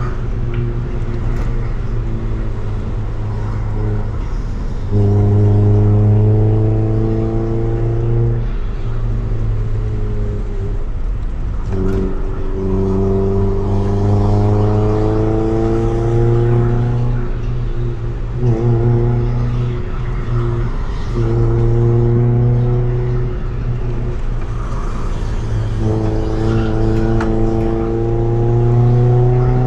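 Honda EF Civic's D15B1 1.5-litre four-cylinder engine through a Tanabe Revel Medalion Touring S aftermarket exhaust, pulling under throttle on a climbing road. The engine note rises slowly in long stretches, then breaks off and drops, about six times.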